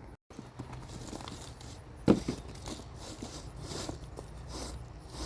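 Scraping and rustling of potatoes being dug out of a grow bag of soil, with one sharp knock about two seconds in.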